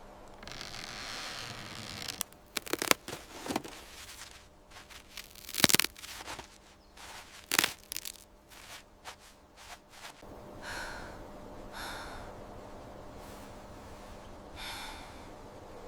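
Hands-on workshop noises on the car: a brief hiss, then a string of sharp knocks and clicks, a few of them loud, and three short scraping rasps later on.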